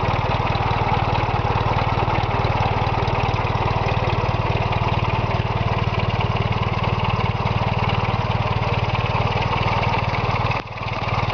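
1947 Empire Model 90 tractor engine running steadily at idle, without its governor fitted, with a brief dip in level near the end.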